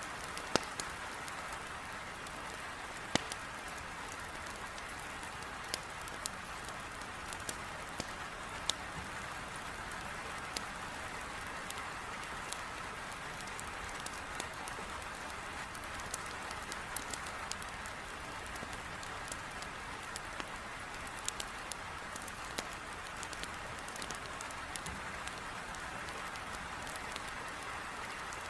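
Heavy rain falling steadily against a window, with sharp crackles and pops from a burning wood fire scattered irregularly through it.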